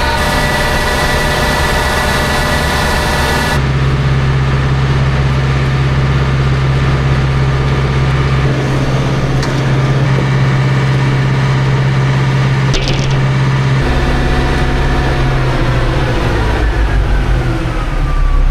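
Engine running steadily, its sound changing abruptly about three and a half seconds in, with its pitch falling near the end as it slows.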